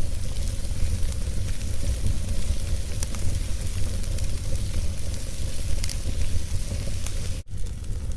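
Wood fire in a fireplace crackling: a steady hiss over a low rumble, with a few sharp pops. The sound cuts out for an instant near the end.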